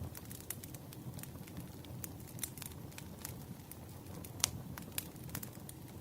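Campfire crackling: wood burning with a low steady rumble and irregular sharp pops and snaps, one louder pop about four and a half seconds in.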